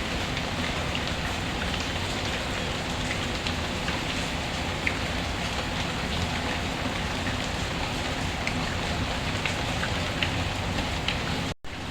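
Steady heavy rain falling, an even hiss scattered with sharp little ticks and pops. The sound cuts out completely for a split second near the end.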